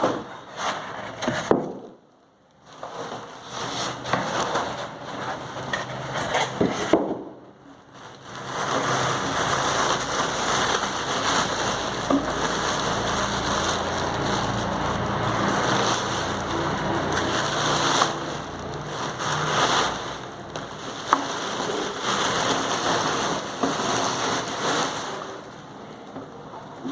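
Rustling, crackling and scraping of packing material being pulled out of a carton: expanded polystyrene (thermocol) packing being removed, with two brief pauses early on and quieter handling near the end.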